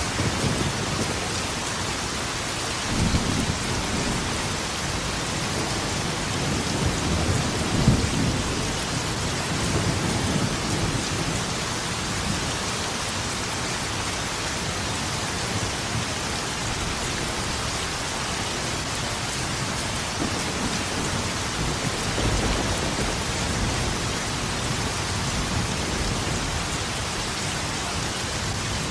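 Steady heavy rain with rolling thunder: low rumbles swell several times, the strongest about eight seconds in, with a weaker roll around twenty-two seconds.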